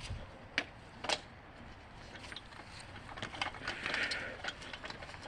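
Footsteps and handling clicks, scattered short ticks with two sharper clicks about half a second and a second in.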